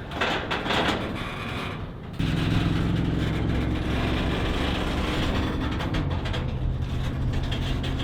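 Diesel freight locomotive engine running with a steady low drone that comes in suddenly about two seconds in, after a rough rushing noise. Its pitch shifts a little about six seconds in.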